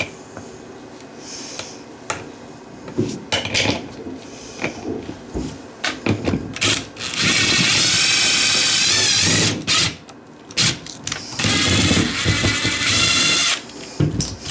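Power drill driving screws in two runs of about two and a half seconds each, its motor pitch wavering under load. Scattered clicks and knocks of handling come before the runs.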